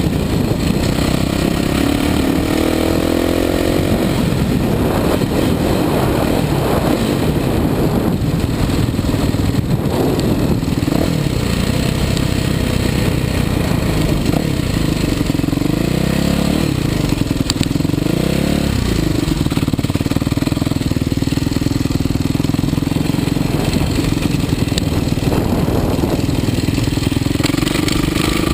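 Kawasaki KX450 motocross bike's single-cylinder four-stroke engine running under way, mostly at a steady pitch with the revs rising and falling a few times.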